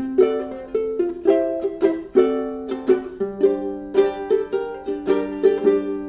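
Solo fingerstyle ukulele playing a melody with chords, several plucked notes a second, each ringing briefly and fading.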